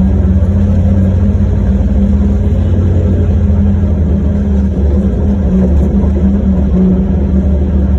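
Diesel engine of an 830 mining haul truck running steadily, a loud deep rumble with a steady hum.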